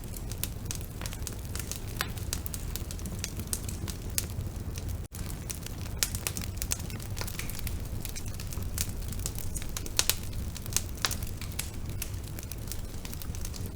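Bonfire burning: frequent irregular crackles and sharp pops over a steady low rumble of the flames, with a momentary dropout about five seconds in.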